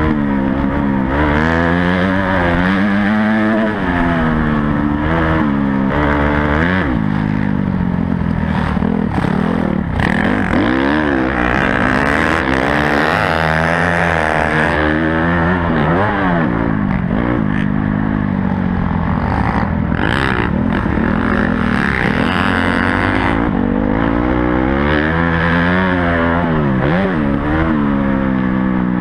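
Honda CRF250 motocross bike's four-stroke single-cylinder engine, revving up and dropping back again and again as the throttle is opened and closed around the track, heard close up from on the bike.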